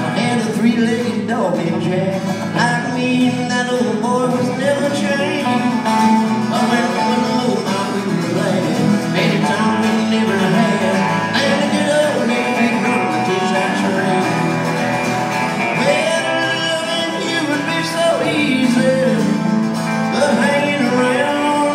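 Live country band playing an instrumental break of an upbeat train song, with acoustic guitar and a lead instrument bending notes over steady strumming.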